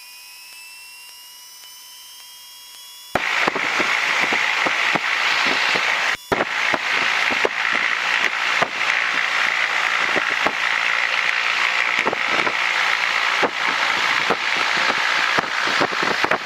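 Cessna 172M's engine held at run-up power, heard inside the cabin. At first it is faint with a whine rising in pitch; about three seconds in it turns suddenly much louder, a steady crackly noise with many sharp ticks.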